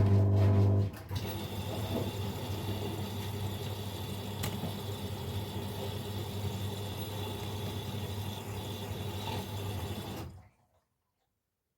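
Washing machine filling: water rushes steadily into the Miele Professional PW 6065 through its inlet valve during the load-detection stage, then cuts off suddenly near the end. A steady low hum at the very start stops about a second in.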